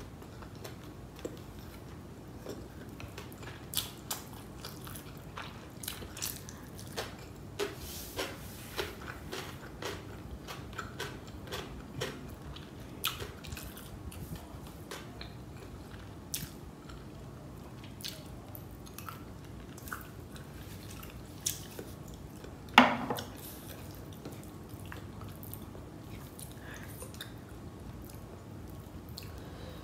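Close-up chewing and mouth sounds of someone eating biryani rice and chicken masala by hand: scattered soft wet clicks and smacks, thickest in the first half, with one louder sudden mouth sound about two-thirds of the way through.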